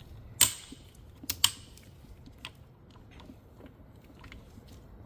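Hard clacks and clicks from manual transmission gear-train parts being handled. One sharp clack about half a second in, then two more close together near a second and a half, followed by scattered faint ticks.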